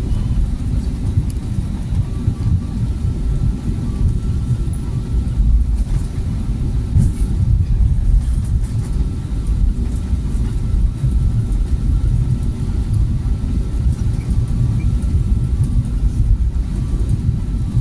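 Steady low rumble of an Airbus A320neo's engines and airflow heard inside the passenger cabin, with a faint steady whine above it.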